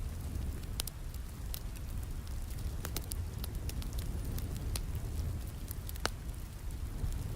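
Wood fire crackling, with sharp pops at irregular intervals, over a steady low rush of rain.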